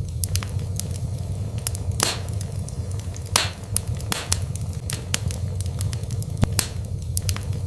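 Wood fire burning in a fireplace: frequent sharp crackles and snaps, with a handful of louder pops, over a steady low rumble of the flames.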